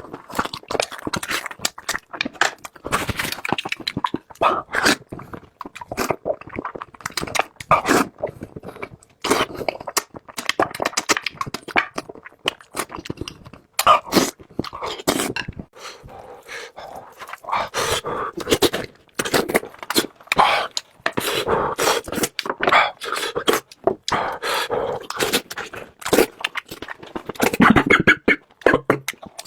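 Close-miked eating sounds: a steady run of wet chewing, smacking and clicking mouth noises as meat is eaten.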